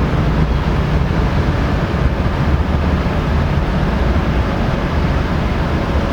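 Aircraft engines running with a steady, even roar, strongest in the low rumble.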